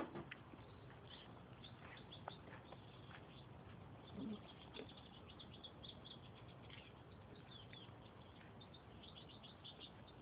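Near silence, with faint birds chirping in the background and one brief faint low sound about four seconds in.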